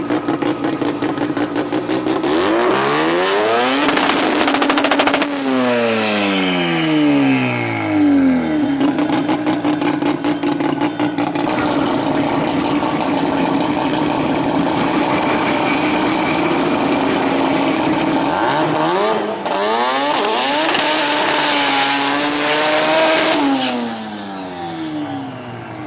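Turbocharged Mazda RX-7 rotary drag-race engine running loud at high revs, its note holding steady for long stretches. Twice the pitch sweeps sharply up and down as the revs change.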